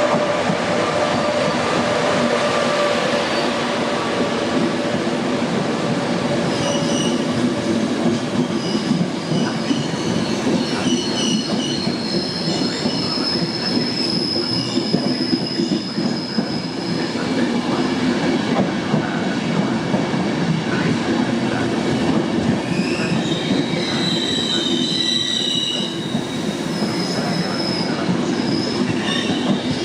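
Train moving along the track at close range, a steady loud rumble of wheels and cars with high-pitched wheel squeal that comes and goes, strongest around the middle and near the end.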